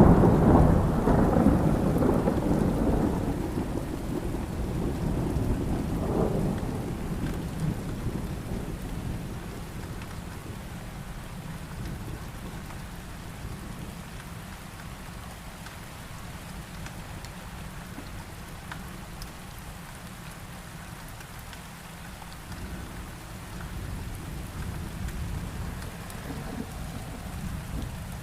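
Thunderstorm: a clap of thunder rumbling and fading away over about ten seconds above steady heavy rain, with a softer rumble swelling again near the end.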